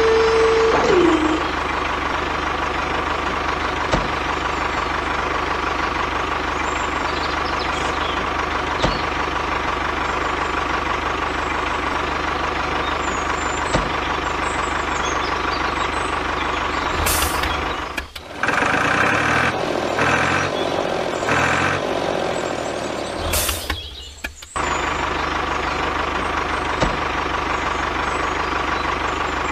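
A small motor running steadily with a constant whine. About 18 seconds in, the sound cuts abruptly to a different, pulsing motor sound, which cuts back about 24 seconds in.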